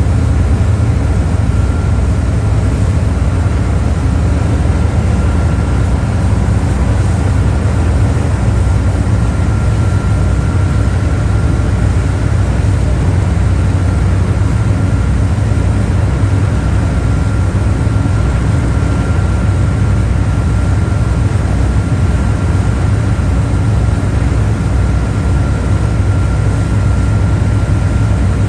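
Boat engine running steadily, a loud low drone with a faint steady whine above it, heard from aboard the boat on the river.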